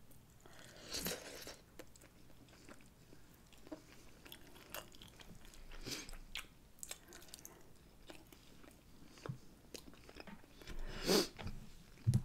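Close-miked eating sounds: chewing and biting into sauced barbecue ribs, with wet mouth smacks and clicks. Louder bites come about a second in and again near the end.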